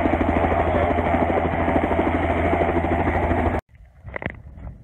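Helicopter in flight, heard from inside the cabin: steady, loud engine and rotor noise with a fast pulsing beat. It cuts off abruptly near the end, leaving a much quieter background.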